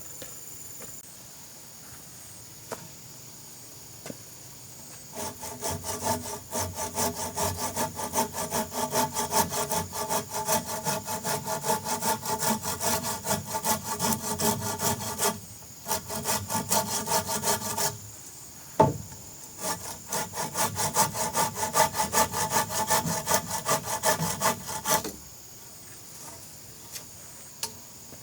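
A hand saw cutting wood in fast, even back-and-forth strokes. The sawing comes in runs with short breaks, and there is a single sharp knock midway.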